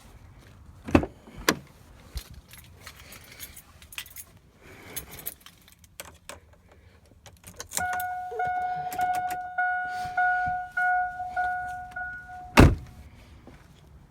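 Keys jangling and a couple of knocks as someone climbs into a 2002 GMC Sierra, then the cab's warning chime pinging steadily, about eight even pings over five seconds, until a loud door slam cuts it off.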